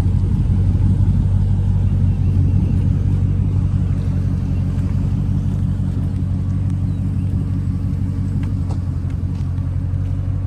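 Dodge Scat Pack's 392 HEMI V8 running at a steady low engine speed, a deep even drone, easing slightly about four seconds in.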